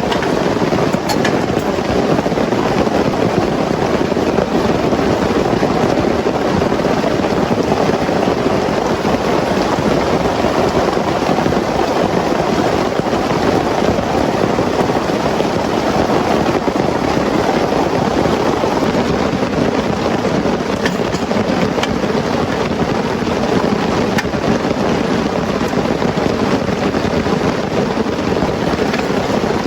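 Heavy rain pouring steadily: a loud, even, unbroken rush.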